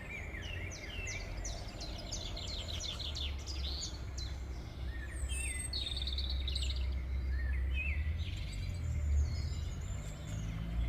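Small birds chirping and calling, many quick chirps and short sweeping notes, over a steady low rumble.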